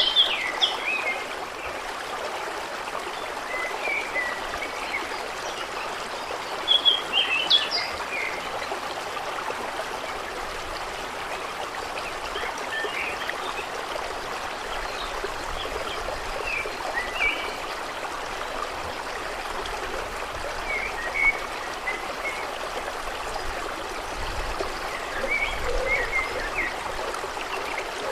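Water running steadily, with short chirping calls of small birds or frogs now and then, loudest at the start and about a third of the way in.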